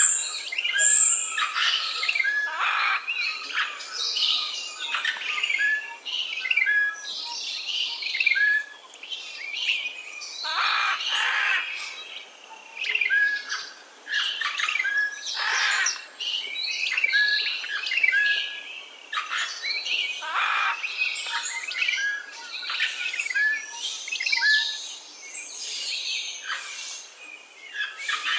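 A chorus of wild birds calling and singing: one short clear whistled note repeats every second or two, among denser chirping and a few harsh calls.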